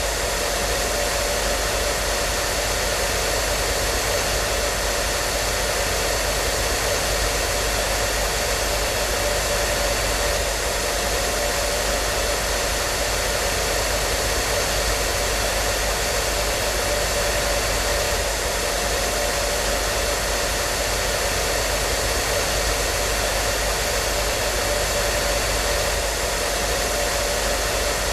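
Hair dryer running steadily: an even, unchanging rush of airflow with a faint steady motor whine and low hum.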